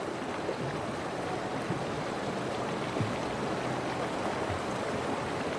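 Steady rush of a fast-flowing river, the Yellowstone River in spring flow.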